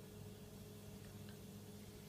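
Faint steady hum of a Whirlpool refrigerator's compressor running, with no gurgling of refrigerant: the owner suspects the freon has leaked out, which is why the fridge does not cool.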